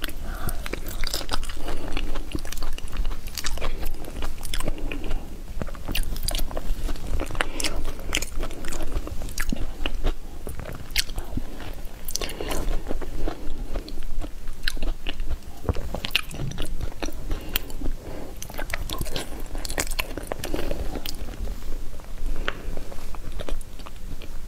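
Close-miked eating of soft durian flesh: biting and chewing, with many short mouth clicks at irregular intervals.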